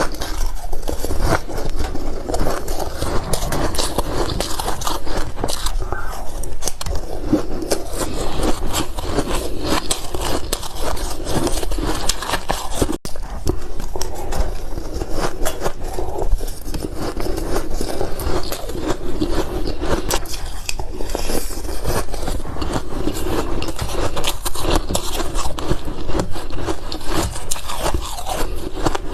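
Close-miked biting and chewing of ice: a dense, continuous run of crisp crackling crunches, with a brief break about halfway through.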